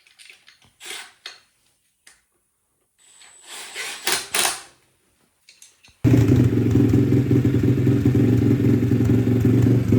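A few short handling noises, then, cutting in abruptly about six seconds in, a Chinese pit bike's single-cylinder four-stroke engine running steadily with a newly fitted aftermarket cam.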